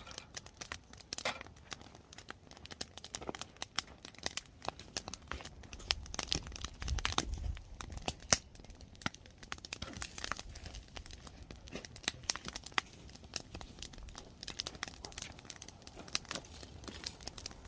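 Wood fire crackling under oysters roasting in their shells: a dense, irregular run of sharp pops and snaps as the shells heat and burst open.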